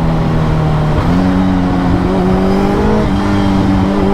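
Suzuki Hayabusa Gen 3's inline-four engine running under way at a steady pitch in one gear, the revs stepping up slightly about a second in.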